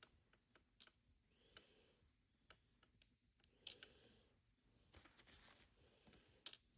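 Faint, scattered small clicks and taps of miniature plastic toy eggs being handled and pressed into a toy fridge's egg holder.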